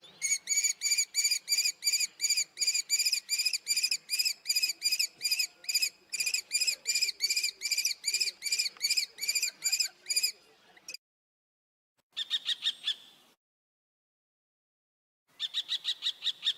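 Common kestrel calling: a long series of sharp, high-pitched repeated notes, about three or four a second, for some ten seconds. After a short pause come two briefer, quicker bursts of the same call.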